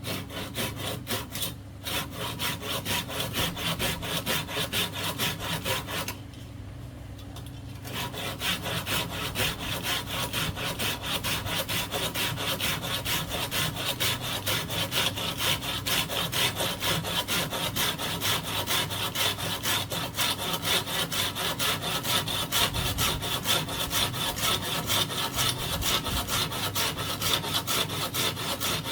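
Hand saw cutting through bamboo in quick, even back-and-forth strokes. The sawing pauses briefly about six seconds in, then resumes and keeps a steady rhythm.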